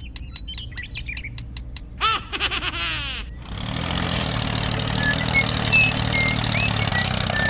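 A faint low hum, a short warbling sweep about two seconds in, then an engine starts up about three seconds in and runs steadily, with a few short bird chirps over it.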